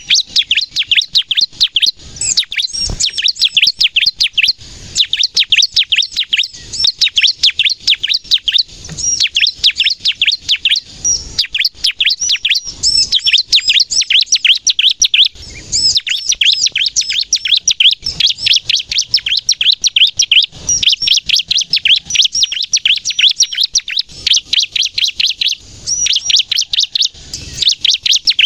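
Bar-winged prinia (ciblek) singing hard: fast, high, sharp chirps run together in long rapid strings, broken by short pauses every few seconds.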